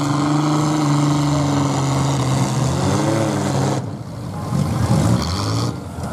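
Demolition derby cars' engines running hard and revving as the cars push and ram each other. A steady engine note holds, then the pitch rises and falls a couple of times about three seconds in, with brief drops in level near the middle and the end.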